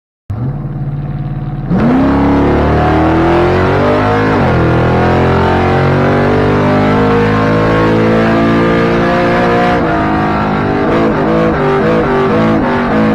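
Small-block Chevy V8 in an S10 drag truck running steadily, then launching hard about two seconds in, its pitch climbing, dropping at a gear shift about four seconds in and climbing again; near the end the note changes and wavers.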